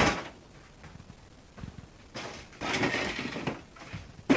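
A sharp knock, then quiet, then a second or so of rough scraping and clattering as a freshly cut-free refrigerator door and its pieces are handled, ending in another sharp knock.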